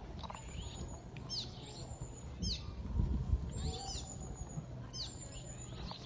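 Small birds chirping: short, high calls that sweep downward, coming in quick clusters about once a second, over a low rumbling noise.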